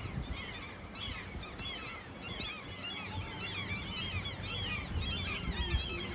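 Many birds chirping and chattering at once in a dense chorus of short, high chirps, over a steady low rumble.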